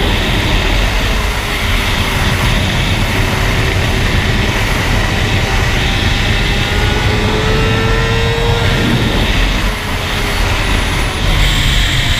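Riding a sport motorcycle at speed: steady wind rush over the camera, with the engine note of a 2007 Suzuki GSX-R 750 with an Akrapovic exhaust rising and falling faintly underneath as the rider rolls on and off the throttle.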